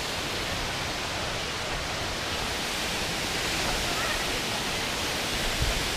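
Waterfall rushing as a steady, even roar of water, with a soft low bump near the end.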